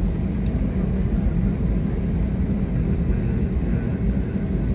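Steady cabin noise inside an Airbus A321-200 airliner: an even, low rumble of the engines and airflow heard from a window seat behind the wing.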